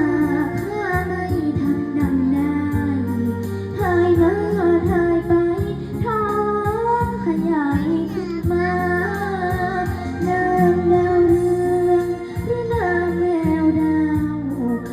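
A young girl singing a Thai song over backing music, her long held notes bending in pitch.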